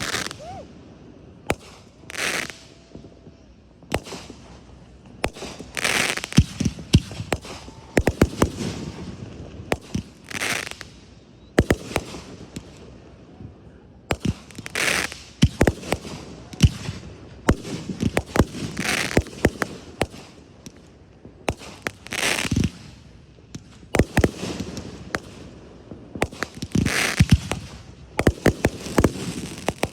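A fireworks display: a rapid, irregular string of sharp bangs, with bursts of hissing crackle every second or two as shells go off.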